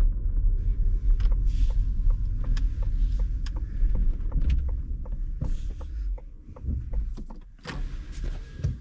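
Low, steady rumble inside a Ford Mustang Mach-E's cabin, with scattered light clicks and rattles. The rumble dips briefly near the end.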